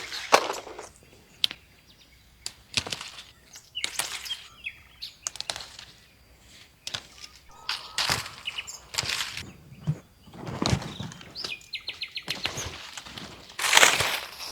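Irregular rustling and crunching noises with sharp clicks in between, a few short high bird chirps, and a quick run of high ticks near the end.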